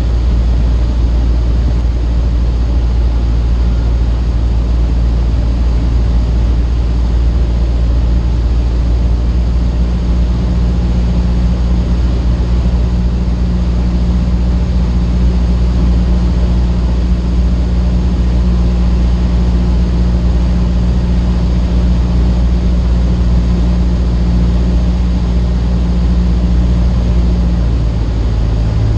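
Cessna 152's four-cylinder Lycoming engine and propeller droning steadily in cruise, heard from inside the cockpit, with a slight shift in its tone near the end.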